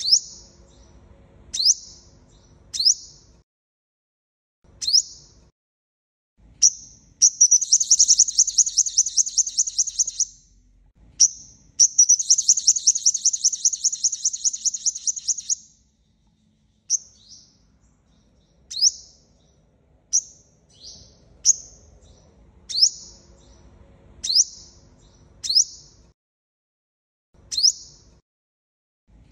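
Sunbird calling: sharp, high, downward-sweeping chirps every second or two, with two long rapid trilled runs of about three to four seconds each, around seven and twelve seconds in. It is a repeated call recording used as a lure for trapping, with abrupt cuts to silence between segments.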